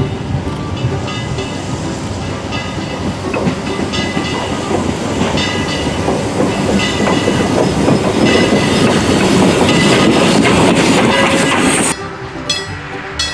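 Train passing close, its wheels clacking over the rail joints, growing louder to a peak and then cutting off abruptly about twelve seconds in.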